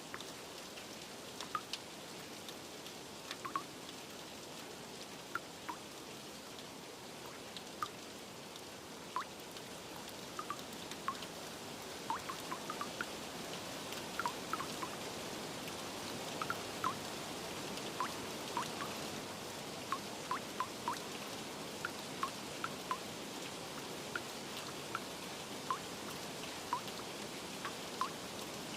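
Steady rain with water drops plinking irregularly, often one or two a second, each a short high drip note.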